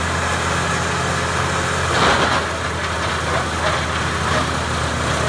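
The engine of a Morbark 2036 wood chipper running steadily with a low, even hum during a test run after repair, with a brief louder rush of noise about two seconds in.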